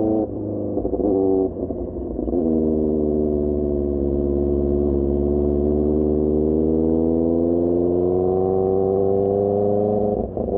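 QJMotor SRK600 inline-four running through a Pure Austin Racing GP1R aftermarket exhaust while riding. The note dips and changes pitch a few times in the first couple of seconds, as with gear changes, then holds steady with revs climbing slowly, and dips briefly again near the end.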